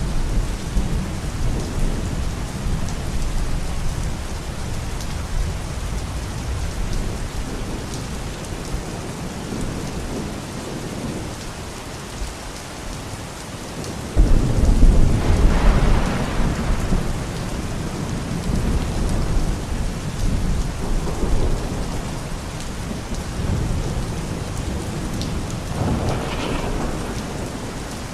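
Steady rain with rolling thunder. A loud thunderclap breaks about halfway through and rumbles away over several seconds, and a smaller rumble swells near the end.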